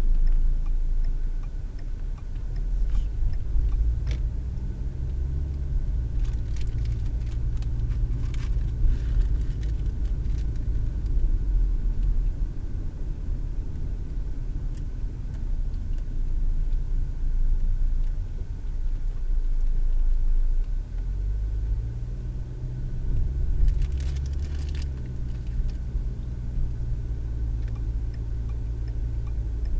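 Car engine and road noise heard from inside the cabin: a steady low rumble, with the engine note rising twice as the car accelerates. Scattered sharp clicks and rattles come through a few seconds in and again in the second half.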